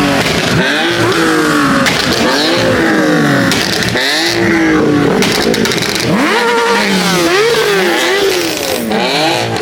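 Car engine revved hard again and again, its pitch climbing and falling about once a second, over a steady noisy haze.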